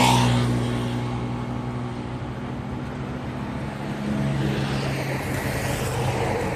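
Motor vehicle engine running with a steady low hum that shifts slightly in pitch about four seconds in, and a swell of passing traffic noise near the end.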